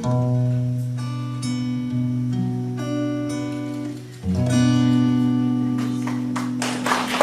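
Acoustic guitar playing the closing chords of a song with no voice. A new chord is strummed about four seconds in and left to ring out.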